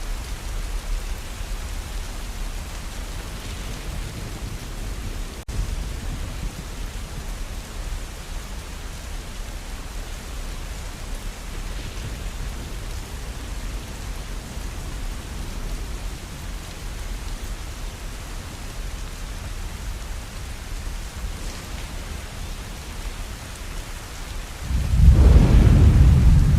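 Steady rain with a low background rumble, then thunder rolls in suddenly and loudly near the end.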